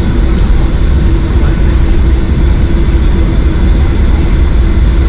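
Steady low rumble of a Boeing 737-800 taxiing, with its CFM56 jet engines at idle and a steady hum, heard from inside the cabin.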